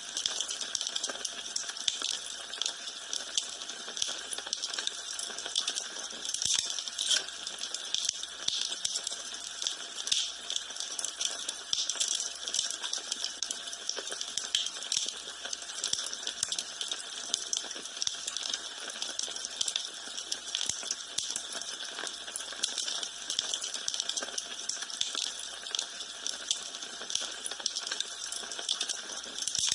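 Wood fire crackling in a fireplace: a steady stream of small crackles and pops, with some louder pops scattered throughout.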